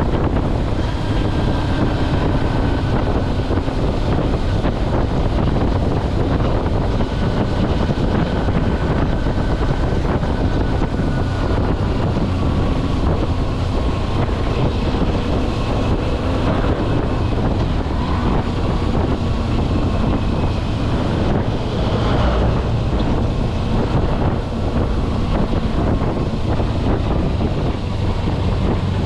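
Kawasaki Versys-X 250 parallel-twin engine running at a steady cruise, its pitch drifting gently with small throttle changes, under heavy wind rumble on the helmet- or bike-mounted action camera's microphone.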